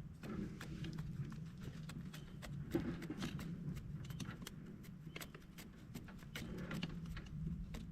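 Campfire crackling, with irregular sharp pops over a steady low rumble.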